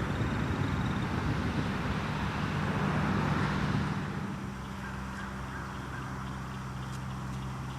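Canada geese calling over a steady low hum, with the calls and noise louder in the first few seconds and then easing off.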